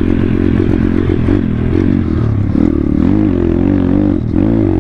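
2019 Thumpstar 140cc pit bike's single-cylinder four-stroke engine being ridden hard over bumpy trail, its revs rising and falling again and again as the throttle is worked.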